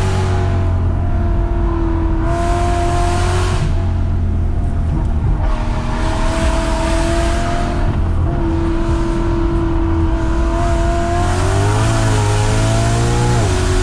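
BMW E92 M3's 4.0-litre V8 with a loud exhaust, heard from inside the cabin, pulling in second gear through a run of bends. Its pitch rises and falls as the throttle is opened and closed, with a wavering dip and rise near the end.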